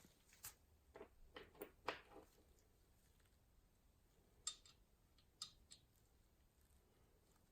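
Faint, scattered clicks and light taps of small hard parts being handled: a quick cluster in the first couple of seconds, then a few sharp clicks near the middle.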